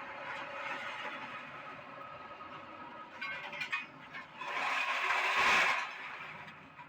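Doosan excavator running as it shifts scrap iron, with a louder rush of noise lasting about a second just past the middle.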